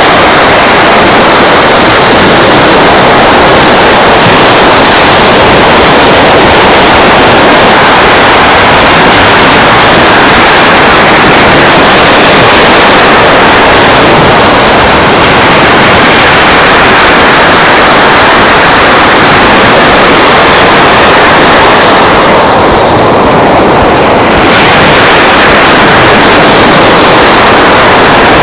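Steady, loud rushing of surf and wind on a beach, an unbroken hiss with no distinct events; the hiss thins briefly near the end.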